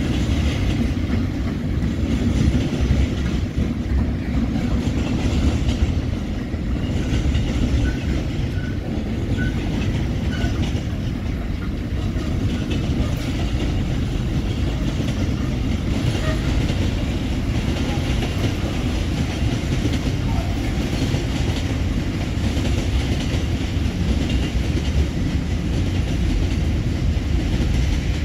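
Aurizon intermodal container freight train rolling past, its wagons' wheels giving a steady rumble on the rails.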